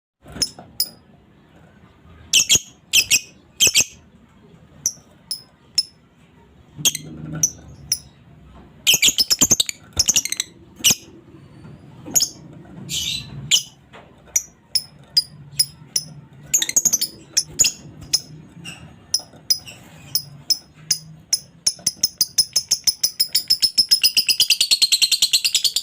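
Female lovebird calling: sharp, high chirps at irregular intervals, breaking near the end into the fast, rattling chatter (ngekek) of about ten notes a second.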